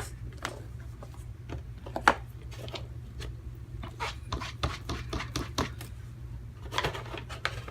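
Light clicks, taps and rustling as a stamp and card stock are handled after stamping, with one sharper click about two seconds in and a cluster of small clicks near the end, over a steady low hum.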